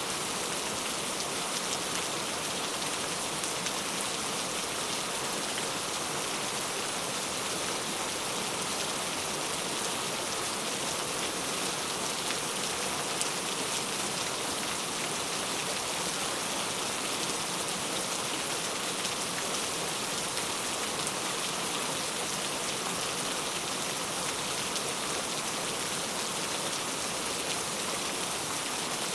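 Steady rain falling, a dense even patter of drops on a hard surface with no thunder.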